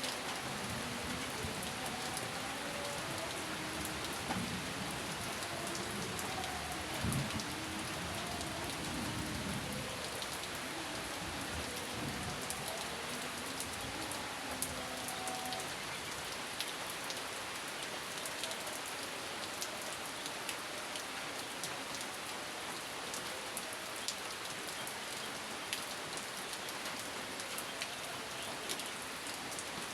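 Steady rain falling, with individual drops ticking against a surface. A faint low rumble of distant thunder runs under it for the first dozen seconds or so, then dies away.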